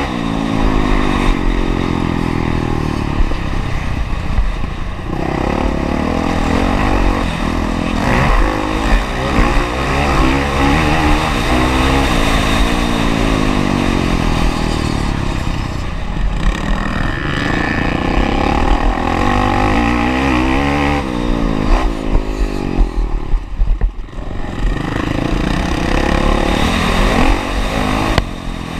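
Honda CRF450R single-cylinder four-stroke engine being ridden hard, revving up and falling back again and again as the throttle is opened and shut, with brief drops in level where the throttle is rolled off.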